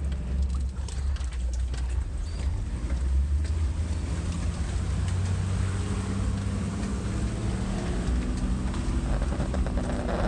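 Toyota Land Cruiser Troop Carrier's engine running under load at low revs as the waterlogged truck drives out through river water, with a steady low rumble and a wash of water noise around it.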